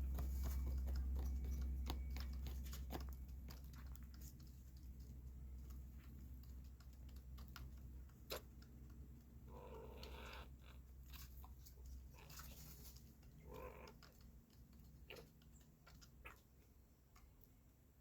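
Quails pecking at millet seed: quick, irregular beak taps, with two short calls about ten and thirteen seconds in as they squabble over the food.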